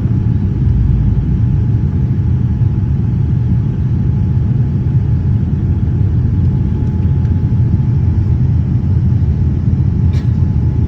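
Steady low rumble of a passenger airliner's cabin, the engines and airflow droning evenly with a faint constant hum above.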